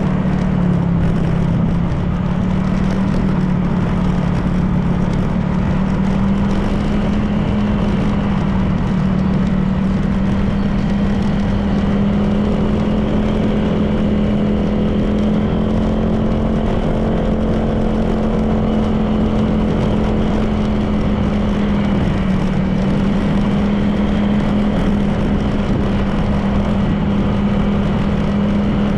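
Honda PCX 160 scooter's single-cylinder engine running at a steady cruise, its note rising slightly a few seconds in and then holding, over steady road and wind noise.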